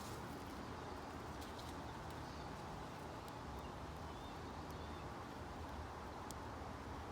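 Steady outdoor background noise with a low hum, a few faint bird chirps, and several light, sharp clicks scattered through.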